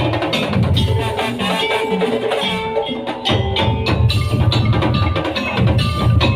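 Madurese daul (tong-tong) ensemble playing: fast percussion on wooden slit drums and drums under a melodic line. The deep drums drop out for about three seconds, then come back in.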